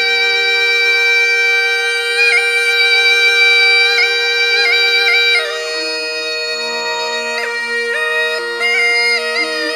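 Murli, the Rajasthani gourd pipe with a drone pipe, playing raga Bhairavi over its steady drone. A long held note turns into quick ornamented turns, and about halfway through the melody steps down into lower phrases.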